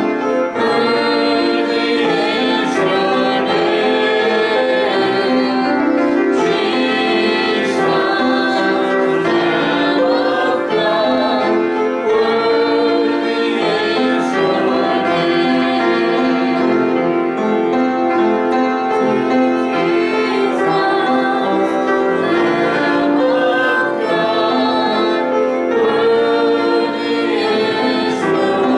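Congregational or choir singing of a worship song with piano accompaniment.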